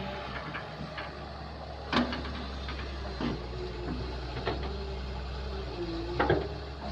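Kobelco excavator's diesel engine running steadily, with several metal clanks and knocks from the working machine, the loudest about two seconds in and another near the end.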